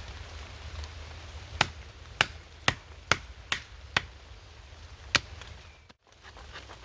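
A blade chopping into a piece of fatwood: seven sharp knocks, mostly about half a second apart with a longer gap before the last, over steady rain.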